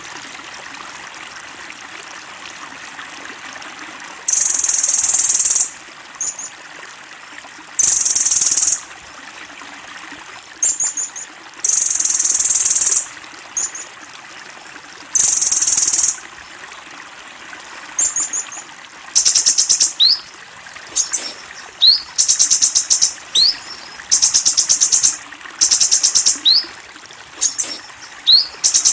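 Kolibri ninja sunbird singing: several high, buzzy trills of about a second each, a few seconds apart, then from about two-thirds of the way in, faster runs of rapid piercing notes broken by short rising chirps. A steady faint hiss lies underneath.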